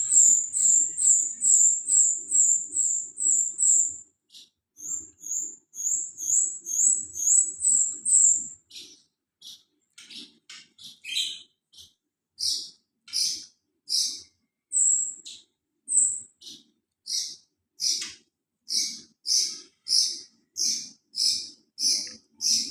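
A songbird singing a long series of short, high repeated chirps. It starts with a fast run of about three a second, breaks briefly about four seconds in, mixes in varied notes, then settles into slower repeated chirps, roughly one a second.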